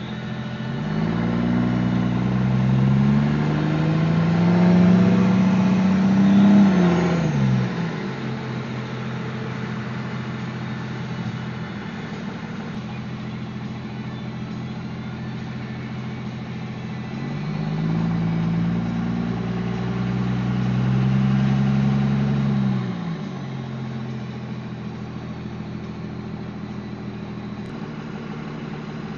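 Diesel pulling truck accelerating hard on the highway, its engine pitch climbing twice: once from about a second in to about seven seconds, and again from about seventeen to twenty-three seconds, each time dropping off suddenly. In between there is a steady drone of engine and road noise.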